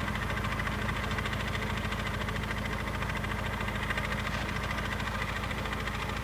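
Tractor diesel engine running steadily at an even pitch and level.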